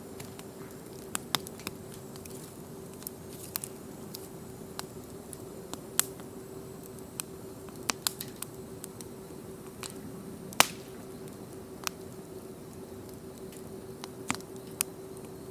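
Wood fire crackling: irregular sharp pops and snaps over a soft hiss, one louder pop about two thirds of the way through. A faint steady hum runs underneath.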